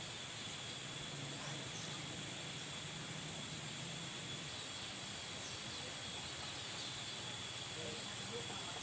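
Outdoor rural ambience: a steady, high-pitched insect drone over a background hiss, with a few faint, scattered chirps of small birds.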